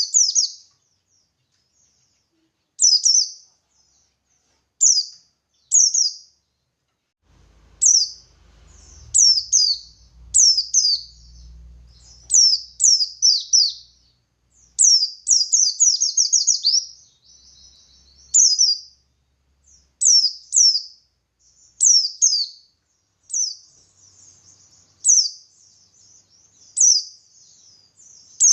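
Pleci buxtoni white-eye singing in the lively wild style: short, high-pitched, downward-sweeping chirp phrases repeated every second or two. The phrases come in quicker, denser runs from about a quarter of the way in.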